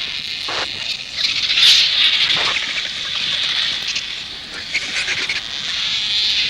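Vultures squabbling at a carcass: short harsh calls sliding downward in pitch, with a louder flurry of calls and hisses about a second and a half in, over a steady high hiss.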